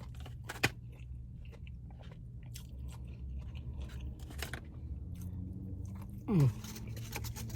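A person chewing a mouthful of food close to the microphone, with soft crunches and wet mouth clicks. A short falling hum of the voice comes near the end.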